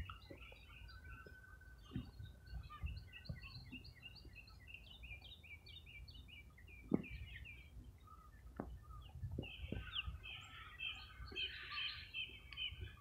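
Birds chirping and calling: many short, quick chirps, one held whistled note near the start, and a busier burst of calls near the end, all faint over a low rumble of wind or outdoor noise.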